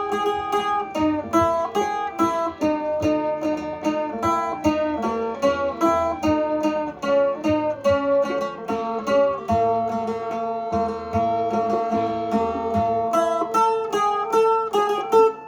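Sueng, the northern Thai plucked lute, playing a quick melody of many plucked notes.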